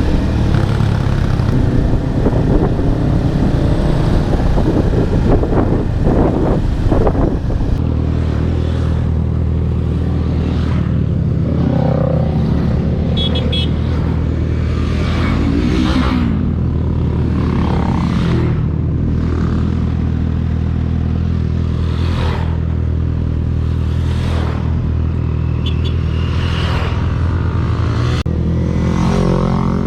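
Motorcycle engine running, rougher and changing for the first several seconds, then holding a steady drone at cruising speed. Brief swells of noise come every few seconds.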